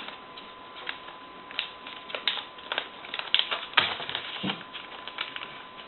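A sheet of paper being folded and creased by hand: irregular crinkles, rustles and sharp little crackles, with the strongest crackles a little under four seconds in.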